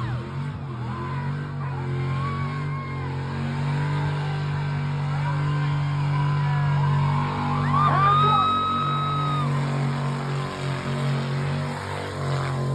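An engine running hard in a burnout. About eight seconds in, the revs sweep sharply up and are held high for a second or two before dropping back.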